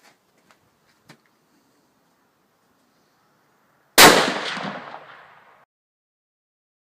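A Mauser M97 straight-pull rifle chambered in .300 Winchester Magnum firing a single shot about four seconds in, a sharp crack that rings away over about a second and a half: a PPU round that went off rather than misfiring. A couple of faint clicks come before it.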